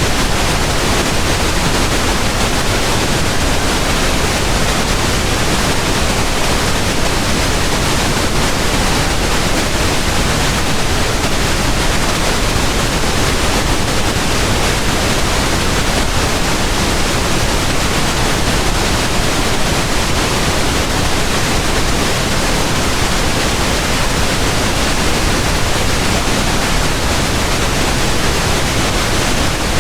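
Pink noise: a steady, even hiss spread across all pitches, without change or pattern.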